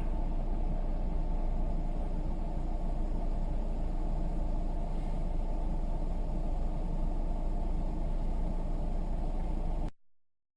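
Steady low rumble of a car on the road, the engine and road noise heard through a dashcam, cutting off suddenly near the end.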